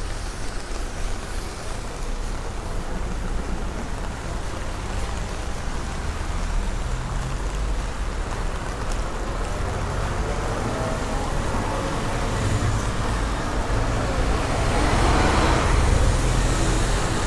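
Steady heavy rain with road traffic on a wet street. The hiss of a passing vehicle's tyres swells over the last few seconds.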